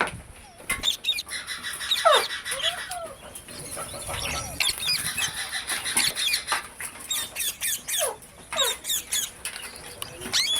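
Several pet green parrots giving short, sharp calls that fall in pitch, over a busy stream of quick flutters and rustles as they flap about during a bath.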